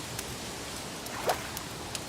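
Wood fire crackling: a steady hiss with scattered sharp crackles and one louder pop about a second and a quarter in.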